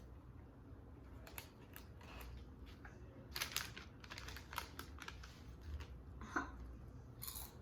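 Eating sounds: irregular crisp crunches and clicks from chewing and handling sandwiches and chips, with a louder cluster about halfway through and another near the end.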